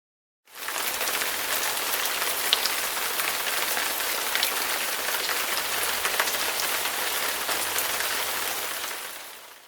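Stock rain sound effect: a steady hiss of rain with many small drop ticks in it. It starts abruptly about half a second in and fades out near the end.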